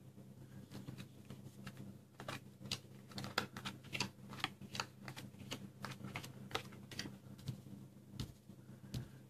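ESP cards being dealt one by one and spread on a cloth close-up mat: a quick run of light card snaps and taps, thickest in the middle of the stretch, over a steady low hum.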